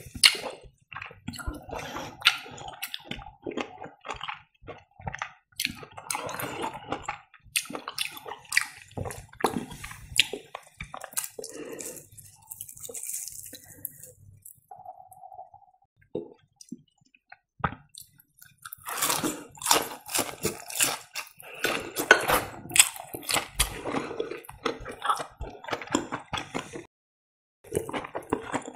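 Close-miked chewing and mouth sounds of someone eating breaded deep-fried cheese: wet, squishy smacking and crisp crunches of the crust. A denser run of crackling comes in the second half.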